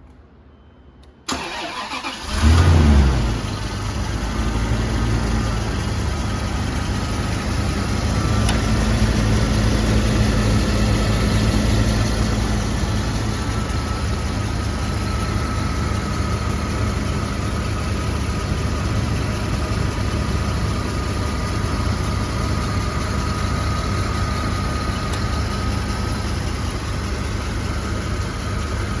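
Bentley Continental T's 6.75-litre turbocharged V8 on a cold start: the starter cranks for about a second, the engine catches with a brief rev flare, then settles into a steady fast idle with a thin steady whine above the engine note.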